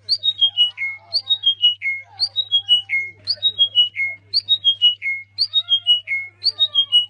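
A bird's call: a quick run of about six high notes stepping downward, repeated evenly about once a second, over a steady low hum.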